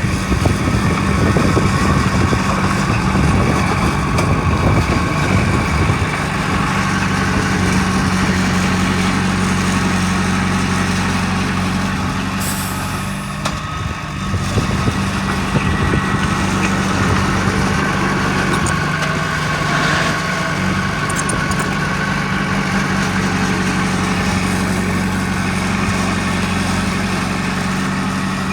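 Heavy diesel engine of earth-moving machinery running steadily, with a short hiss about twelve seconds in.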